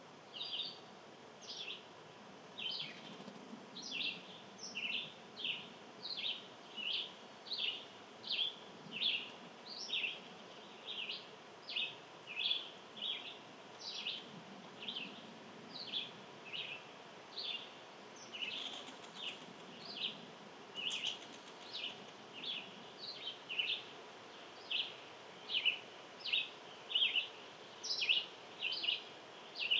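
An animal giving a long, steady series of short, high chip calls, about one and a half a second.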